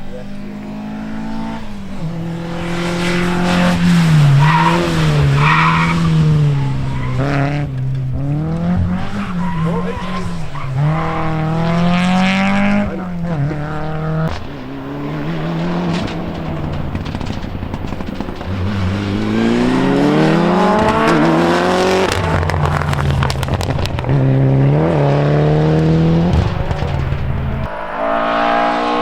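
Rally car engines revving hard, the pitch climbing and dropping again and again as the drivers go up through the gears and lift off.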